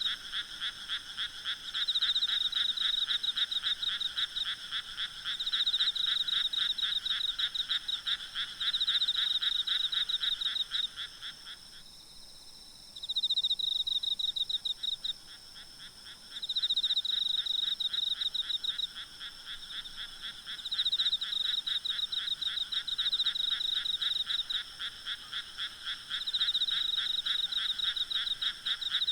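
Night chorus of frogs calling in rapid pulsed trains, in bouts of a few seconds that overlap, over a steady high-pitched hum of insects. The lower part of the chorus drops out for a couple of seconds about twelve seconds in.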